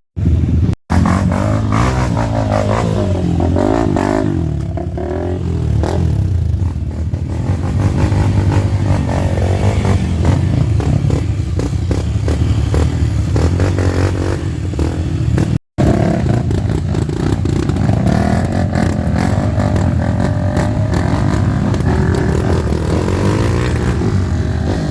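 Dirt bike engines running hard and revving, pitch rising and falling over and over as the riders work the throttle through mud. The sound drops out abruptly twice near the start and once about two-thirds of the way through.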